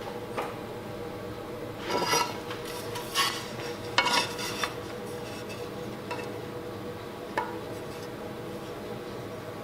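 Scattered metal clinks and scrapes, with louder knocks about two, three and four seconds in and one more near seven seconds, over a steady background hum.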